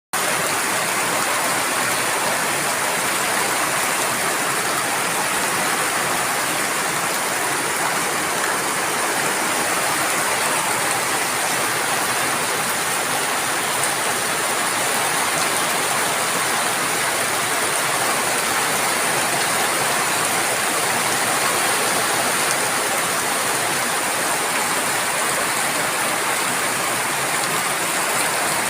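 Rain falling steadily, a constant even hiss that does not let up.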